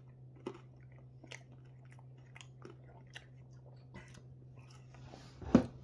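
A person chewing a mouthful of pizza close to the microphone, with short wet mouth clicks every half second or so. Near the end a short breath is followed by one much louder thump.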